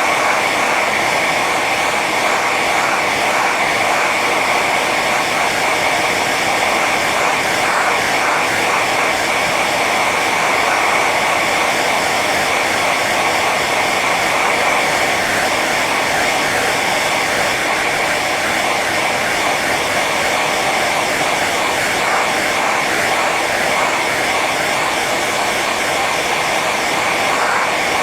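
Hair dryer running steadily on its high setting: a constant blowing whir with a high whine.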